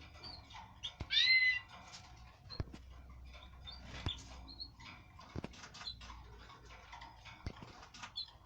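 Canaries in breeding cages chirping and calling in short notes, with one louder call about a second in. A few sharp clicks are scattered among the calls.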